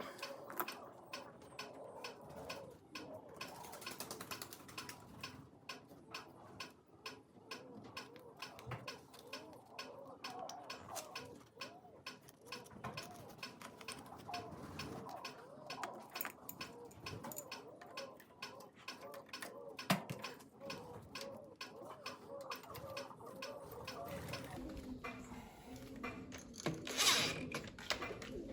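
Faint, irregular mechanical clicking and ticking, with one sharper knock about two-thirds of the way through and louder noise building near the end.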